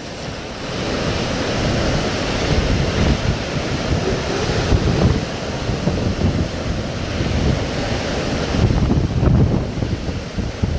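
Hurricane wind blowing in strong gusts, buffeting the microphone with a loud, steady rush that swells and eases.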